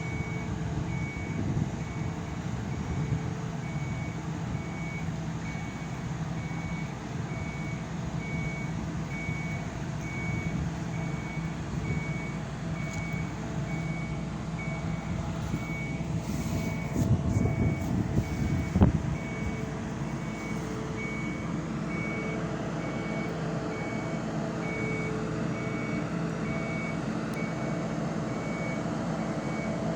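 Heavy vehicle's engine running steadily while its warning beeper sounds a continuous, evenly repeating series of high beeps. A louder knock comes a little past halfway.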